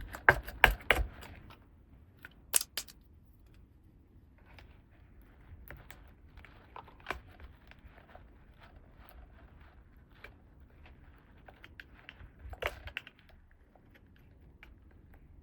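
Small plastic toy pieces and packaging being handled: a quick run of sharp clicks and taps, then light rustling and scattered ticks, with another cluster of clicks about three-quarters of the way through.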